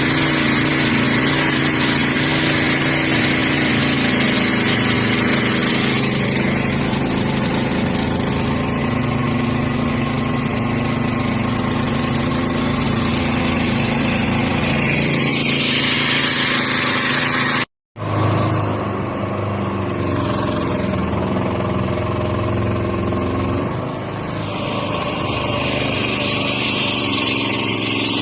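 212cc 6.5 hp single-cylinder four-stroke engine of a long-tail mud motor running steadily. The sound cuts out completely for an instant about two-thirds of the way through.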